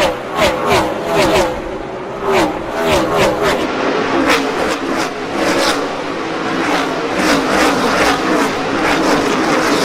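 A pack of NASCAR Cup stock cars with V8 engines at full throttle, passing one after another in quick succession. Each car's engine pitch drops as it goes by.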